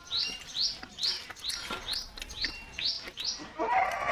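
A bird repeating a short, quickly rising chirp about twice a second, with a brief rougher, noisier sound near the end.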